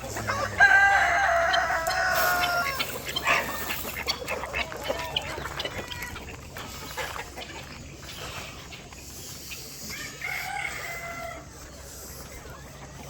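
A rooster crowing: one long crow about half a second in, and a second, shorter and fainter crow about ten seconds in.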